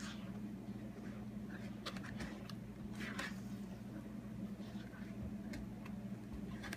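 Thin, watery batter being stirred by hand in a bowl: irregular soft scrapes and taps of the utensil against the bowl, over a low steady hum.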